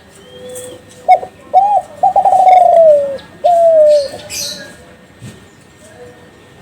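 Kelantan-strain spotted dove (derkuku) cooing one phrase: two short coos, then a long warbled note that falls in pitch, then a shorter falling note.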